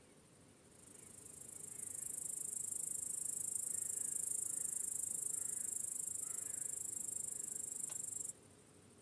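Crickets trilling in a high-pitched, steady buzz that swells in over about a second, holds, and cuts off abruptly near the end.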